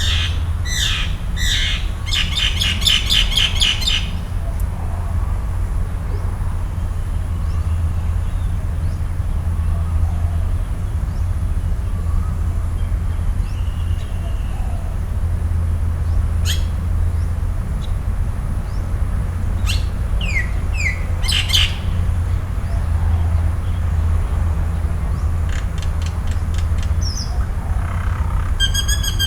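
Wild forest birds calling off and on. There is a burst of falling calls and a fast rattling trill at the start, then scattered sharp chirps and short whistles. A steady low rumble and a thin high tone run underneath.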